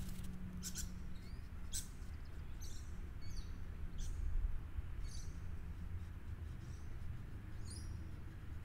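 Small birds chirping: short, high calls about once a second, some with quick falling sweeps, over a low steady rumble.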